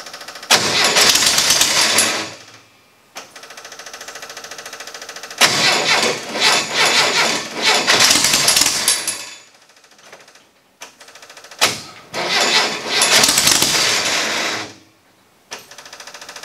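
Air-cooled VW Baja Bug flat-four being cold started. The starter cranks with an even pulsing, the engine catches and runs loud and uneven for a few seconds, then cuts out. This happens three times: the cold engine won't keep running.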